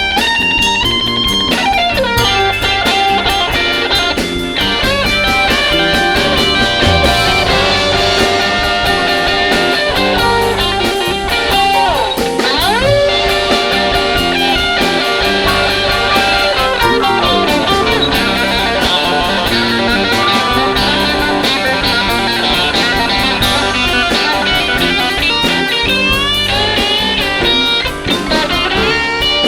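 Blues-rock band playing live: electric guitar to the fore over a drum kit, with notes sliding up and down in pitch near the middle.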